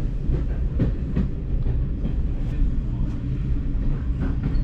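Passenger train carriage running along the track, heard from inside the carriage: a steady low rumble with occasional clicks from the wheels on the rails.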